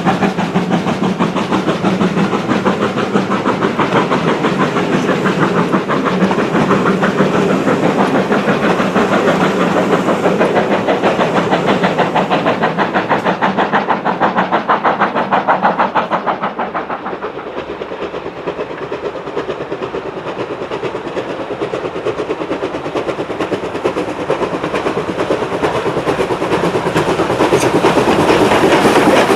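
Steam train running, with a fast, even rhythm of beats and wheel clatter. It eases a little past the middle and builds again near the end.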